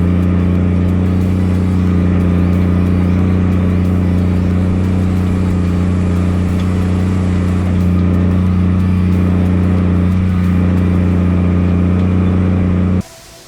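240-horsepower farm tractor's engine running at a steady pitch under constant load while pulling a field cultivator. It cuts off abruptly near the end.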